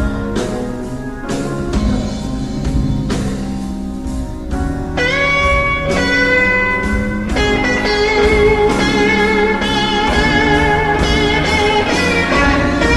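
Slow blues band playing, led by an electric guitar solo. The guitar bends its strings up into long sustained notes, with a rising bend about five seconds in, and shakes them with vibrato later on. Bass and drums play underneath.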